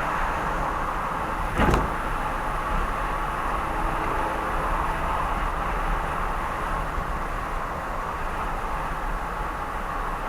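Steady road and engine noise of a car driving along an expressway, with a single sharp knock a little under two seconds in.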